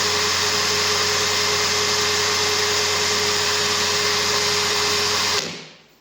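Parkside PABS 20 Li G8 20 V cordless drill's brushed motor running at a steady speed with no load, for a measurement of its rotation speed. Released about five and a half seconds in, it spins down.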